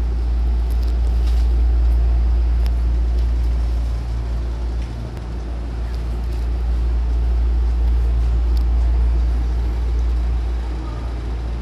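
Steady low hum and rumble inside a standing Hankyu 9000-series train car with its doors open at the platform, with a few faint clicks.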